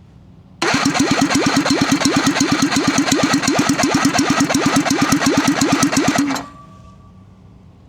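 Hercules W2000 Wankel rotary engine being cranked over by its starter with a compression tester in place of the spark plug, so it does not fire. It makes a fast, even, rhythmic pulsing at about 250 rpm, starting about half a second in and cutting off sharply about six and a half seconds in. The test that follows shows one low compression peak, which the owner thinks may be caused by carbon build-up.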